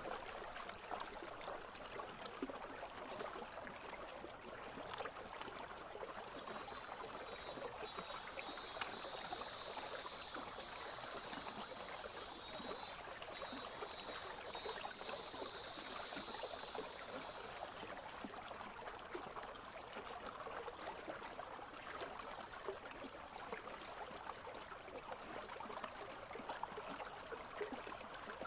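A country stream flowing and babbling steadily. Cicadas join with a faint high pulsing buzz from about six seconds in and stop a little past the middle.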